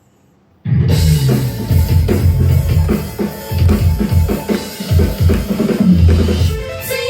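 Loud rock song with drum kit and heavy bass starting suddenly about half a second in, after a moment of near quiet, with steady drum hits and a short break near the end.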